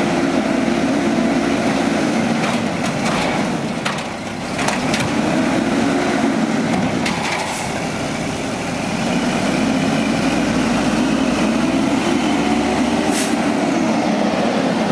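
Automated side-load garbage truck's engine revving up and down in three long surges, with several sharp clanks and knocks.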